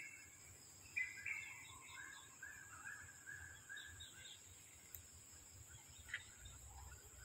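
Faint bird chirps: short high calls, one about a second in and a quick run of them a little later, over quiet background noise.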